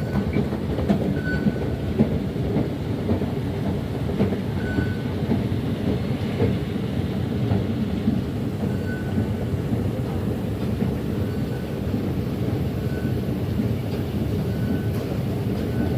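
Singapore MRT train running, a steady rumble of wheels on rail, with a faint short high tone recurring every couple of seconds.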